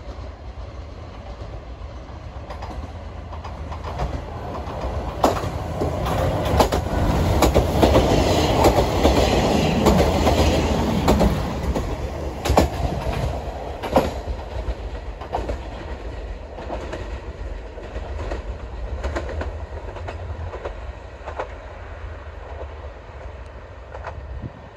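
Diesel train passing straight through a small station at speed without slowing: a low engine drone and wheels clacking over rail joints. It builds to its loudest about eight to ten seconds in, then fades as the train moves away.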